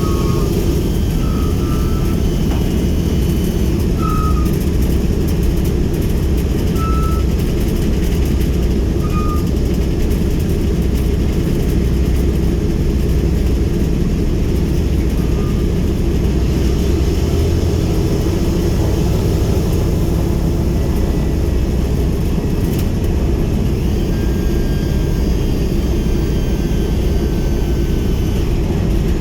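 Boeing B-17G Flying Fortress's Wright R-1820 Cyclone radial engines running steadily on the ground, a loud, even low drone. A few brief high squeaks sound over it in the first ten seconds or so.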